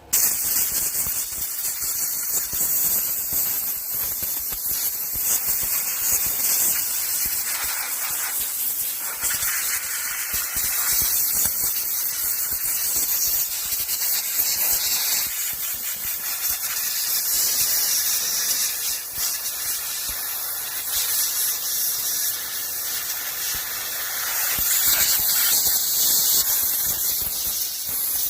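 Compressed air blowing from an air-hose nozzle to clean dirt off a chainsaw: a loud hiss that starts abruptly and rises and falls in strength as the nozzle is moved.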